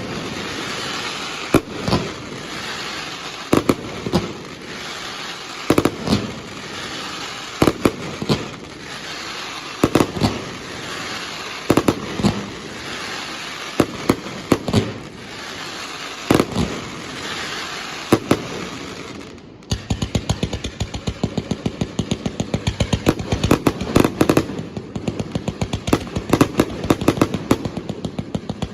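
Large aerial fireworks shells bursting close by, with a bang about every two seconds over a steady hiss. About two-thirds of the way through, the hiss drops away and a rapid run of quick bangs, several a second, takes over.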